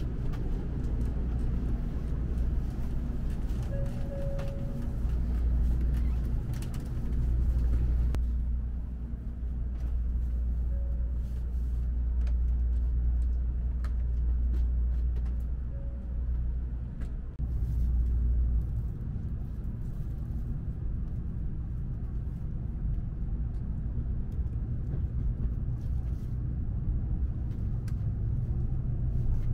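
Low, steady rumble inside a Tokaido Shinkansen Nozomi passenger car, with a few brief faint tones. Near the end the train is pulling away from the platform.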